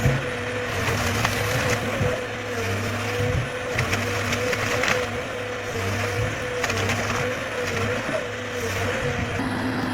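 Heavy forestry machine running under load, with a steady engine drone and whine and scattered cracks and crunches of wood being broken.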